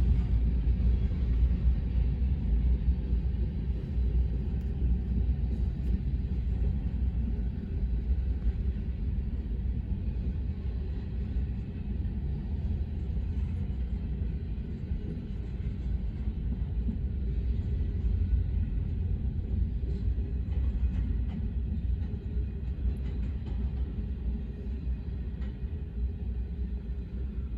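Cars of a manifest freight train rolling past, a steady low rumble of steel wheels on the rails.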